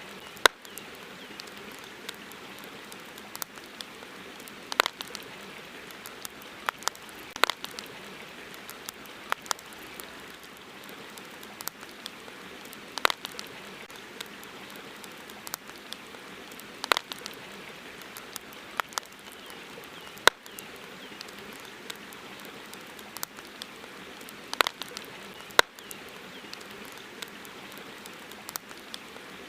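Wood campfire crackling: irregular sharp pops and snaps, several every few seconds and one loud snap about two-thirds of the way through, over a steady background hiss.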